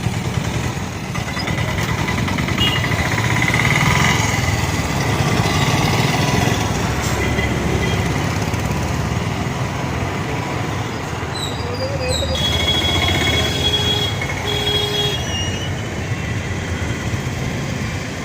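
Steady motor-vehicle and road traffic noise, an engine running, with a few short steady tones in the second half.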